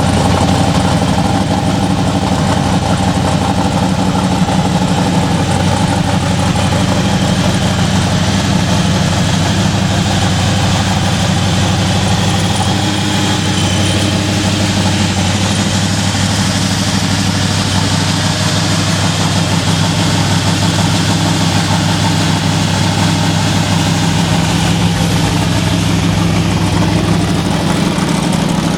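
1968 Camaro drag car's engine idling steadily.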